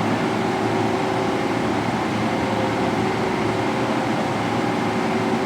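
A motor running steadily: an even hum made of several held tones over a noise haze, with no change in speed.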